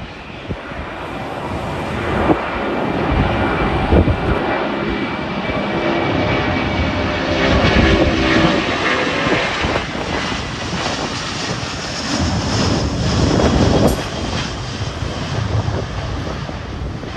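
An airliner passing the microphone, its engine noise building over the first few seconds, holding loud, then easing off about three seconds before the end, with a faint high whine. Gusts of wind buffet the microphone.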